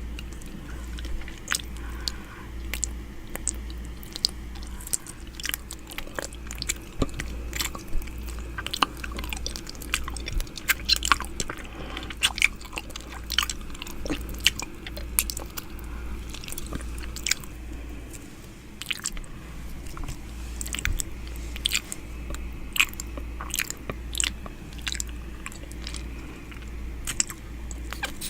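ASMR 'ear eating' mouth sounds close against an ear microphone: wet clicks, smacks and nibbling noises, irregular and several a second. A low pulsing hum runs underneath.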